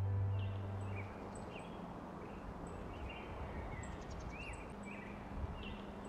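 Soft background music dies away in the first second. After it comes quiet outdoor ambience with small birds giving short, high chirps every so often.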